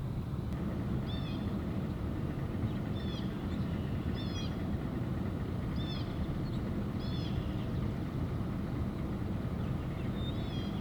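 Truck engine running with a steady low rumble, while a small songbird gives a short high chirping call about six times, a second or two apart.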